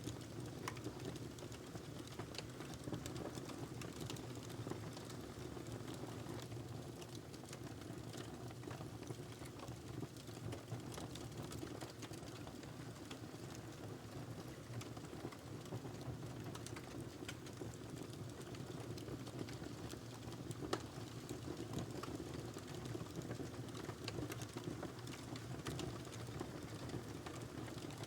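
Wood fire burning in a fireplace: a steady low rumble of the flames with frequent small irregular crackles and pops, one sharper pop about three-quarters of the way through.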